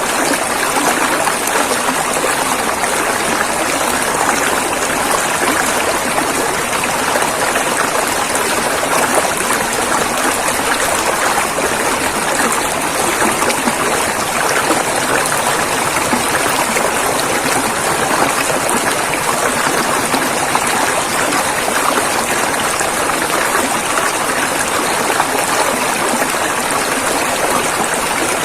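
A river's water rushing and flowing over rocks in a steady, unbroken wash of sound.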